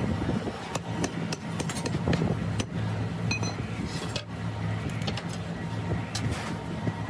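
Scattered light taps and clinks of hand tools at work on a sand mold, over a steady low hum.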